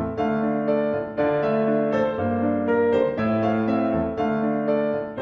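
Background piano music, a light melody over sustained bass notes.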